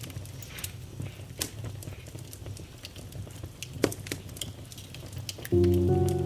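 Wood fire crackling, with irregular sharp pops over a low rumble. About five and a half seconds in, piano music starts over it and is louder than the fire.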